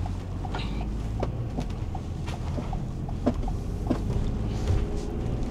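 Van engine running, heard from inside the cabin as a steady low hum, with scattered small clicks and rattles of loose things in the van.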